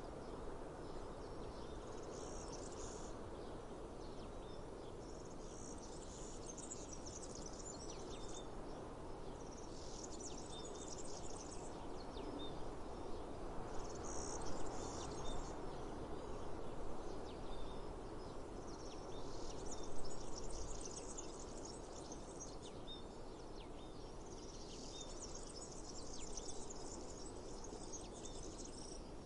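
Outdoor insects buzzing in repeated bursts of a second or two, a few seconds apart, with small birds chirping now and then. A steady rushing background runs beneath them and swells briefly about 14 and 20 seconds in.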